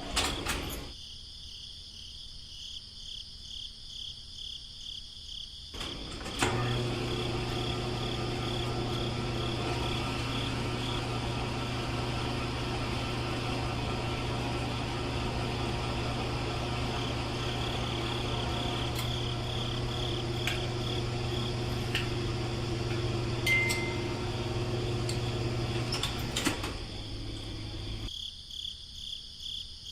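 A small motor hums steadily, starting about six seconds in and cutting off near the end. Crickets chirp in a steady pulsing rhythm throughout.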